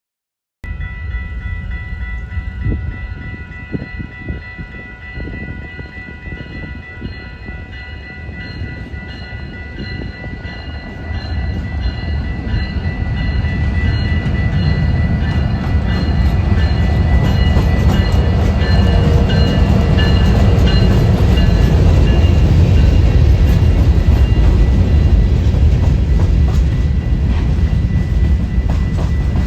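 A train rumbling past, the low rumble swelling louder from about ten seconds in and then holding steady. Over the first half, several steady high-pitched tones sound above it and fade away.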